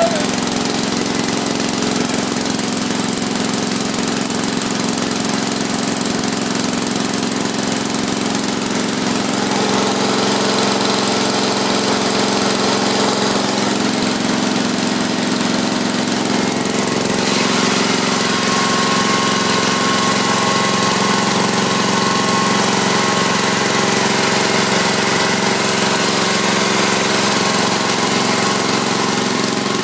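Engine of a 2005 Cub Cadet LT1042 lawn tractor running steadily just after a cold start in freezing weather. About halfway through, the sound turns a little brighter and louder.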